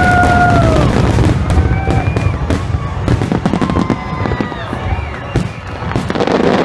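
A fireworks display going off: rapid bangs, crackles and low booms one after another, with a few held and gliding tones over them near the start and midway.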